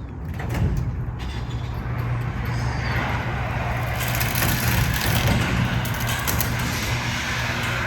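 Electric garage door opener running, its motor humming steadily while the sectional garage door travels along its tracks with rattling and clicking. The hum starts about half a second in.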